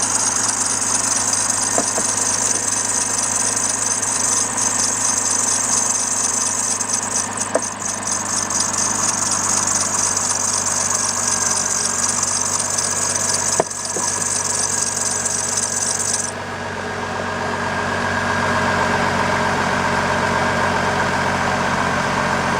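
Car engine idling with its worn serpentine belt squealing high and steadily as it slips on the pulleys it drives. About two-thirds of the way through the squeal cuts off suddenly, typical of belt lubricant reaching the belt's grooved side, and the engine idles on quietly. A few brief sharp clicks come earlier.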